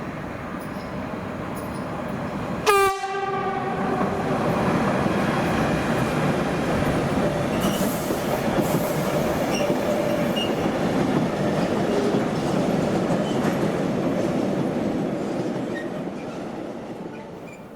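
Train horn sounding one short, loud blast about three seconds in. A train then passes with a long, steady rumble of wheels on rails, fading away near the end.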